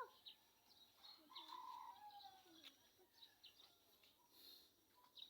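Faint birds chirping: scattered short, high chirps and a few brief sliding whistle calls.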